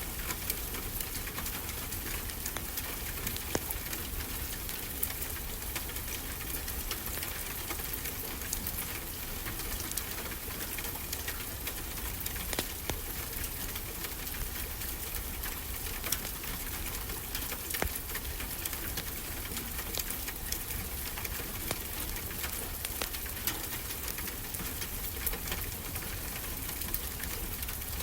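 Wood fire crackling, with frequent small sharp pops over a steady hiss of ocean surf.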